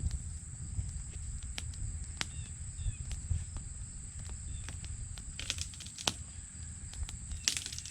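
Outdoor ambience: wind rumbling on the microphone under a steady high insect drone, with scattered sharp clicks and snaps, some in quick clusters about five and seven seconds in.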